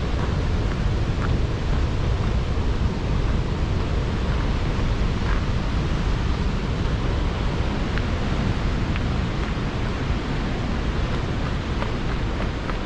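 Tännforsen waterfall roaring: a steady, dense rush of falling water, with a few faint clicks here and there.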